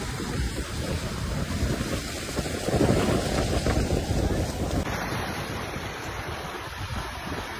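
Lake Superior waves washing against the rocky shore, with strong wind buffeting the microphone. The sound changes abruptly about five seconds in.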